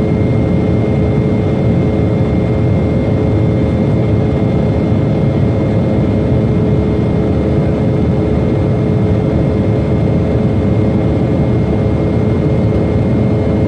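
Jet airliner engines running loud and steady at high power, a deep rumble with several steady whining tones over it.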